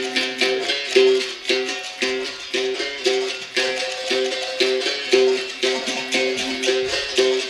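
Berimbau playing a steady capoeira rhythm, its struck wire switching between two notes a step apart, with the caxixi rattle on each stroke.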